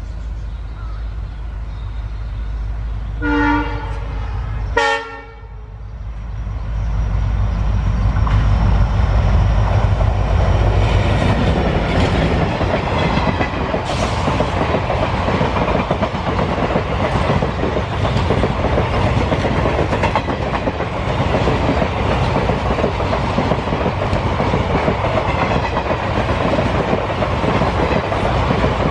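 EMD WDP4D diesel locomotive sounds two short horn blasts about three and five seconds in as it approaches, its engine rumbling low. The train then passes at speed, with loud steady wheel clatter over the rail joints as the coaches go by.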